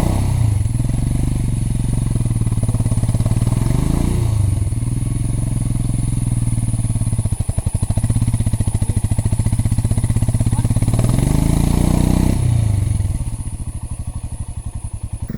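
Royal Enfield Himalayan's single-cylinder engine running hard under throttle with the bike stuck in mud, revved up twice, about four seconds in and again around eleven to twelve seconds in, then eased back to a lower, quieter run.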